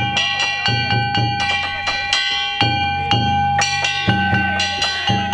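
Danjiri-bayashi festival float music: a taiko drum beating a fast, steady rhythm under the ringing clang of hand-struck kane gongs.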